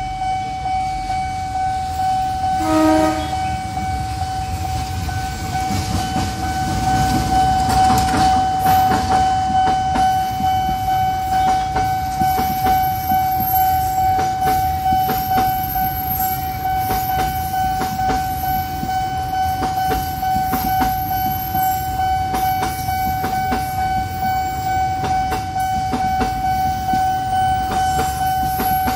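A level-crossing warning alarm sounds a steady tone while a train horn gives a short blast about three seconds in. Then a long freight train of green cargo wagons runs past with wheels rumbling and clattering over the rails.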